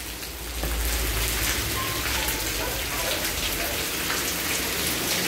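Steady rain shower falling on a garden lawn and wet tiled paving, growing louder about half a second in.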